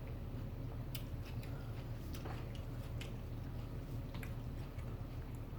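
Close-miked chewing of food, with scattered soft wet clicks and smacks over a steady low hum.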